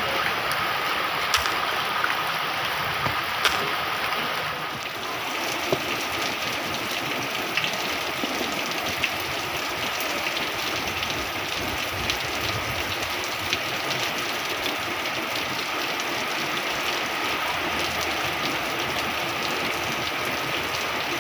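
Heavy rain falling steadily, with a few sharper drops tapping close by.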